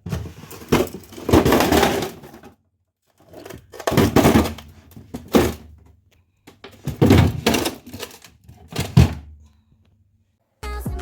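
Clatter and thunks of kitchen items being handled and set down during fridge cleaning, in three bursts of a few seconds each with silent gaps between.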